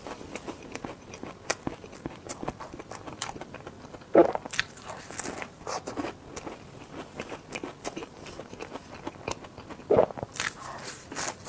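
Close-miked eating: chewing with many small wet clicks, and two louder bites, one about four seconds in and one near the end.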